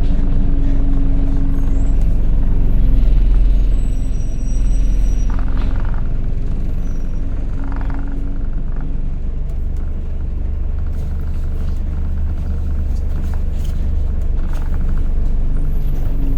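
Alexander Dennis Enviro200 single-deck bus heard from on board, its engine running with a steady whine over a low rumble. Short hisses of air come about five and eight seconds in.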